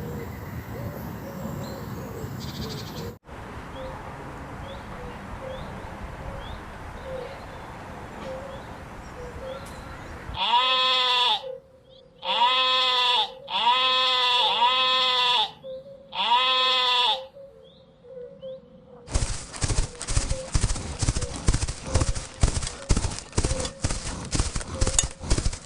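Four loud bleats, each about a second long, from a goat, over a noisy background with faint chirps. From about 19 s in comes a fast, uneven run of sharp clicks or knocks.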